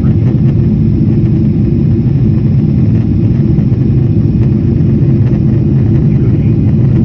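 A loud, steady low rumble that does not change in level or pitch.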